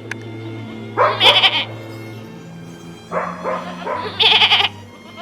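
A goat bleating twice in loud, wavering calls, the second longer and broken into pulses, over a steady background music bed.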